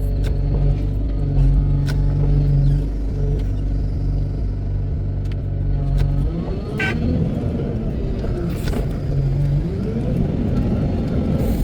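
Wheel loader's diesel engine idling steadily, then revving up and down repeatedly from about six seconds in as the machine works.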